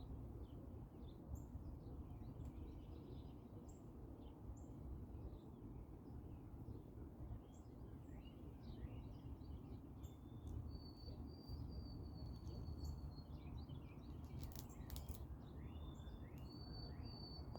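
Small birds chirping in many short, scattered calls over a faint steady low rumble of outdoor background noise, with a thin high held note twice in the second half and a few sharp clicks near the end.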